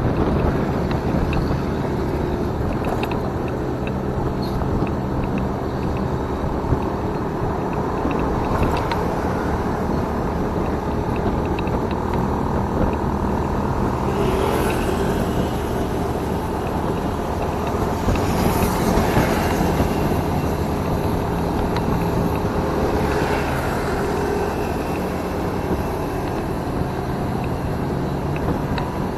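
Motorcycle engine running steadily while riding, under a rush of wind and road noise, with two louder swells of noise about halfway through.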